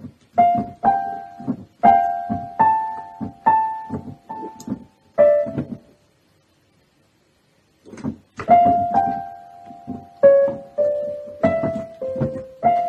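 Piano playing a simple melody of single struck notes over lower notes. It stops dead for about two seconds midway, then picks up again.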